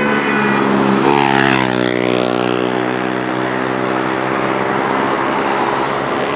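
Motorcycle engine passing at speed: its note drops in pitch as it goes by about a second in, then carries on at a lower, steady pitch.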